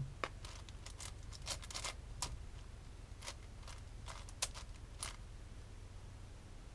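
Plastic puzzle cube being turned by hand: irregular sharp clicks of the layers snapping into place. They come quickly for the first two seconds, then more sparsely, and stop after about five seconds.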